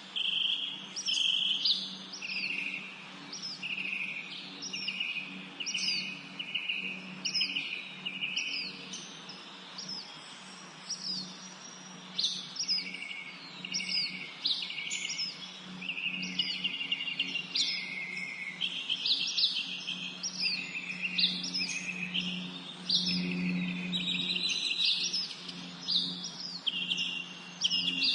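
Several songbirds singing and chirping together, with repeated short high notes that fall in pitch and buzzy trills, thinning briefly about ten seconds in. A steady low hum runs underneath.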